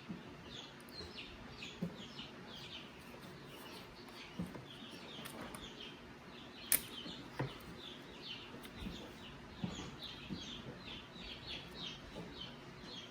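Small birds chirping steadily, a quick run of short falling chirps, several a second. Scattered light clicks and knocks from parts being handled, with one sharp click about seven seconds in.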